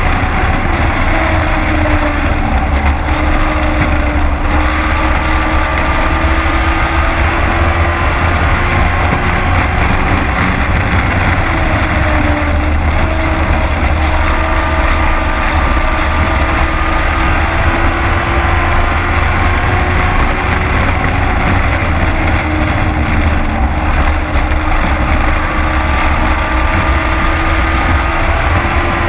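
Race truck's engine heard from inside the cab at racing speed, the revs climbing, then dropping back and climbing again several times as it laps the oval.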